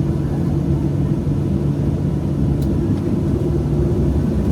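Boeing 737-700's CFM56 jet engines running at idle while the aircraft taxis after landing, heard inside the cabin as a steady low rumble with a constant hum.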